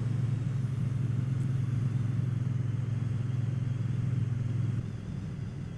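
Triumph Bonneville T120's parallel-twin engine running steadily under way, a steady low drone that quietens about five seconds in.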